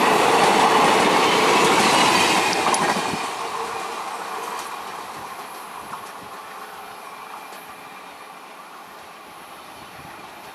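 Passenger train coaches rolling past close by at speed, their wheels running on the rails. About three seconds in the noise drops away, and the train fades steadily as it moves off into the distance.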